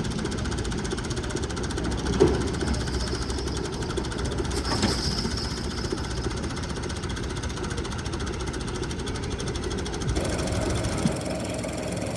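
A machine running with a steady, rapid mechanical rattle, with a few sharp knocks; the background changes abruptly about ten seconds in.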